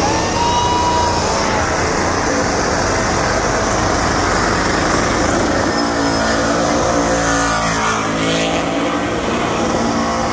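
A burnout car's engine revving hard and held at high revs while its rear tyres spin and smoke on the pad. From about six seconds in, the engine note settles into a steady high pitch.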